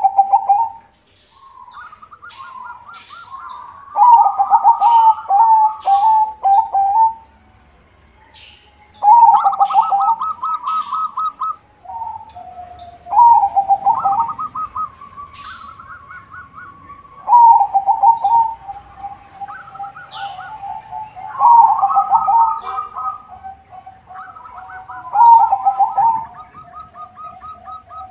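White zebra dove (perkutut) cooing in repeated phrases every few seconds, each a quick staccato run of notes around a long held coo, with faint high chirps from other small birds.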